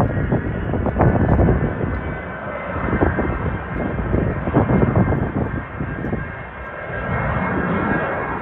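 Cessna Citation business jet's turbofan engines running, a faint steady whine over a rumble that swells and fades unevenly.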